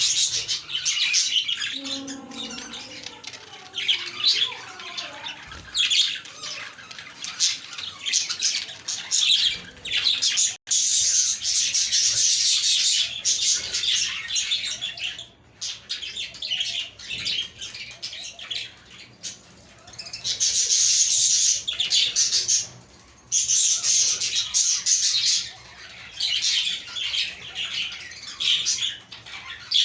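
A group of budgerigars chirping and warbling together in a dense, continuous chatter with brief lulls. A short lower-pitched call comes about two seconds in.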